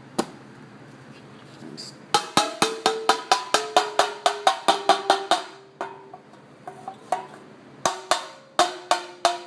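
Metal lid being tapped down onto a can of Chem-Dip carburetor cleaner to seal it: a rapid series of ringing metallic knocks, about four or five a second for three seconds, then a few more near the end.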